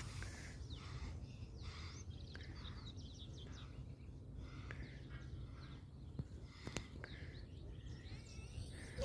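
Wild birds chirping in short, quick calls over a steady low outdoor rumble, with one sharp click a little before seven seconds in.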